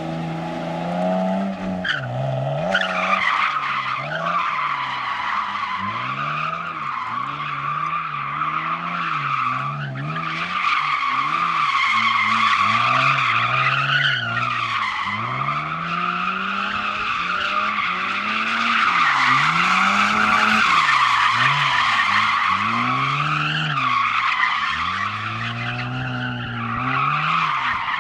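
A car drifting: its engine revs rise and fall again and again as the throttle is worked, over a long continuous tire squeal that starts about two and a half seconds in.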